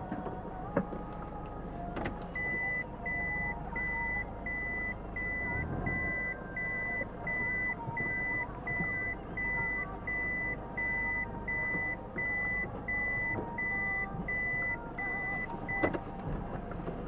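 A car's reverse-gear warning beeper, heard from inside the car: a steady high beep about one and a half times a second, starting about two seconds in and stopping near the end, each end marked by a click. Under it the car's low running hum.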